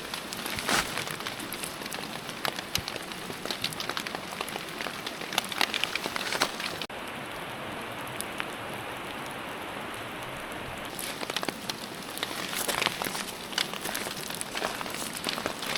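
Steady rain falling, a continuous hiss with frequent sharp individual drop hits; near the middle the upper hiss dulls suddenly for a few seconds before returning.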